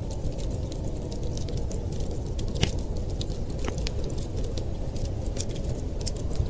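Wood fire crackling, with frequent small sharp pops and two louder snaps about a second apart near the middle, over a steady low rumble.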